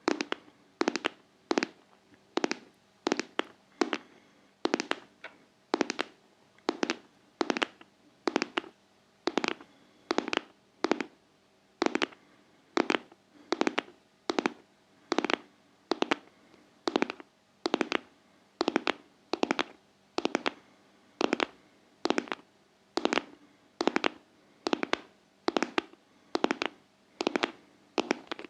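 Close-miked ASMR tapping: sharp, crisp taps struck one after another, about one to two a second in an uneven rhythm, each dying away quickly.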